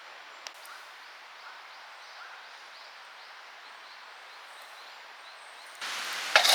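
Quiet outdoor ambience with faint repeated chirping, then a wood campfire crackling and hissing, starting abruptly and louder near the end, with a few sharp pops.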